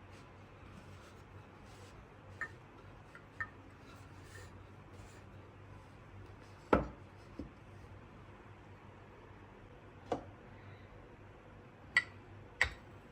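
Scattered light knocks and clinks of small household objects being handled and set down, seven in all, the loudest about seven seconds in and two close together near the end. A faint low hum runs underneath.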